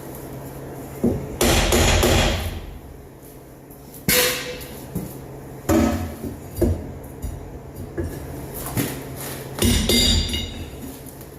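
Irregular metal knocks and clanks from hammering and working on the steel rear-suspension parts of a 1971 Chevy pickup: a loud clattering stretch early on, several separate blows, and one strike about ten seconds in that rings.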